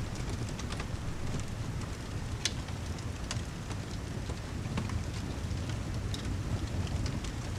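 Steady rain ambience with a low, even rumble underneath and scattered sharp ticks and pops throughout.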